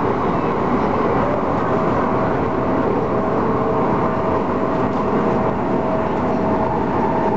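Inside an MTR Tung Chung Line A-Train running between stations: a steady rumble of wheels on rail, with a faint steady tone from the train's running gear coming in about three seconds in.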